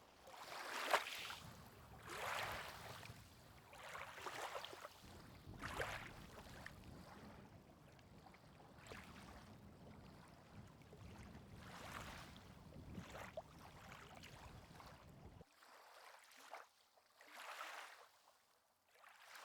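Faint lapping water: small waves washing in, swelling and fading every second or two. The low rumble drops out suddenly near the end.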